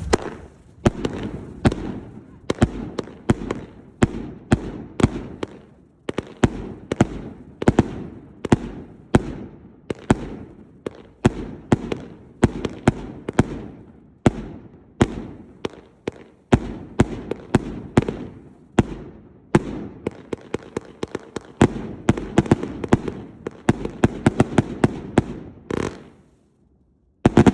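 Consumer fireworks cakes firing a long run of sharp salute reports, about two a second, crowding into a fast cluster near the end, then a brief pause and one last bang.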